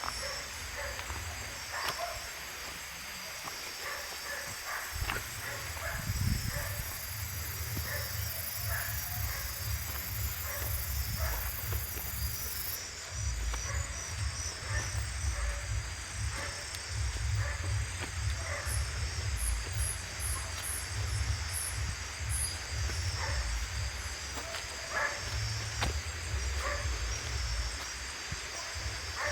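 Outdoor ambience: a low wind rumble on the microphone, a faint pulsing insect-like chirping high up, and scattered small ticks and short chirps.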